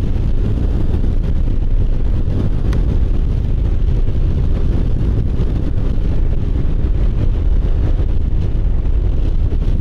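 Steady wind rumble on the microphone, mixed with road and engine noise from a KYMCO Agility City scooter being ridden at speed.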